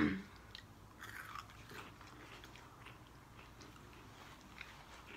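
Faint chewing of a crispy fried chicken sandwich, with small crunches and wet mouth clicks.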